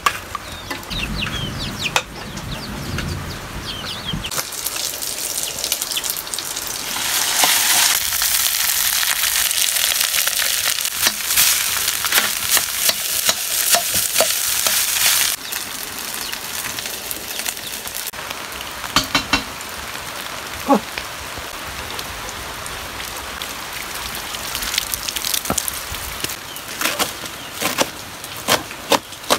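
Cooked rice frying in a hot iron wok over a wood fire: a loud, even sizzle that cuts off suddenly about halfway through, with a metal spoon stirring and scraping. Chickens cluck faintly in the first few seconds. Near the end comes a knife chopping mustard greens on a stone board, about two chops a second.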